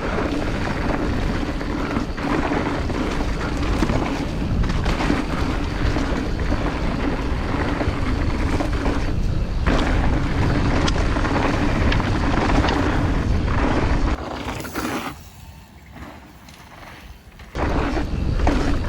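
Mountain bike descending a dirt downhill trail: wind rushing over the action-camera microphone along with tyre and frame rattle. About 14 s in it falls much quieter for some three seconds, then the noise comes back.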